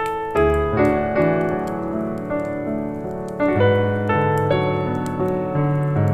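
Soft jazz piano music, with new notes and chords struck every second or so over held lower notes. Faint crackling from a wood fire sits behind it.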